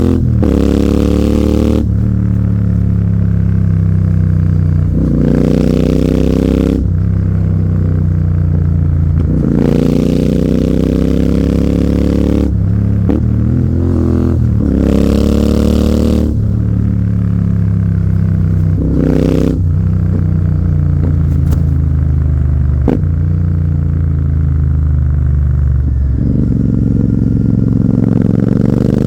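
Royal Enfield Continental GT 650's parallel-twin engine through an AEW 103 exhaust, repeatedly rising in pitch under throttle and dropping back between pulls, about six times. A few sharp clicks are heard along the way.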